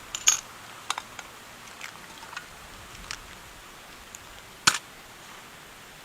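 A scattering of sharp, irregular clicks and snaps over a steady hiss, the loudest a few tenths of a second in and again near the end.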